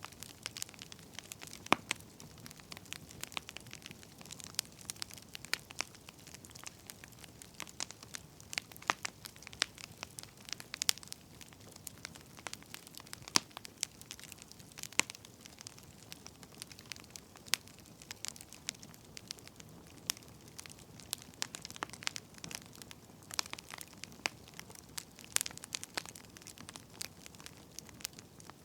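Firewood burning with irregular crackling: sharp pops and snaps, some louder than others, over a soft steady hiss.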